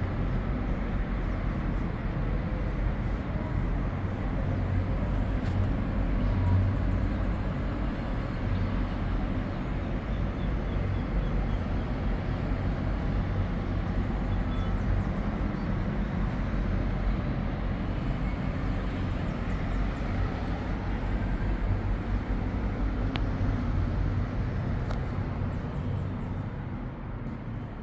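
Steady outdoor background noise, a low rumble with an even hiss above it.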